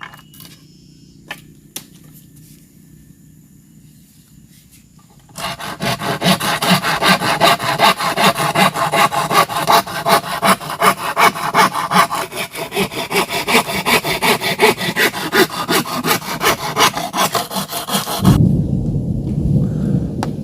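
Hand saw cutting bamboo in steady, even back-and-forth strokes, starting about a quarter of the way in after a few light knocks. Near the end the sawing stops and a deep roll of thunder begins.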